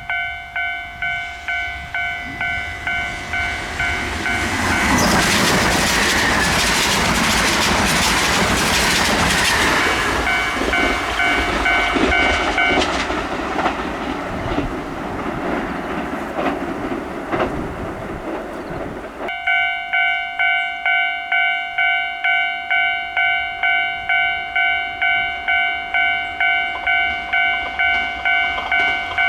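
A Kintetsu train passes, its rumble and wheel clatter on the rail joints rising about four seconds in and dying away by about nineteen seconds. Before and after it, a railway crossing bell rings in a steady, evenly pulsing ding, about two strikes a second.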